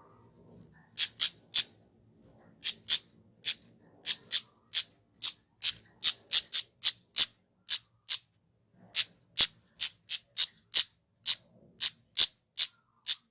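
Kemade (flowerpecker) calling: a long series of very short, high, sharp notes repeated irregularly, about two to three a second, with brief pauses.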